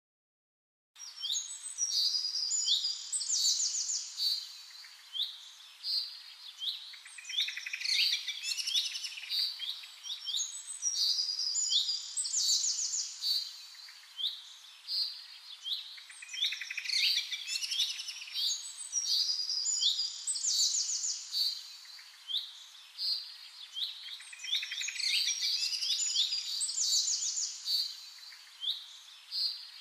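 Many birds chirping and singing together, quick sweeping calls that repeat and overlap, with no engine or wind noise beneath them. The calls begin about a second in, after a brief silence.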